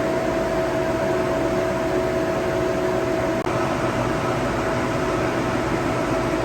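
Engine of a Woodmizer LT15 portable sawmill running steadily at an even pitch, a constant mechanical drone with a steady hum.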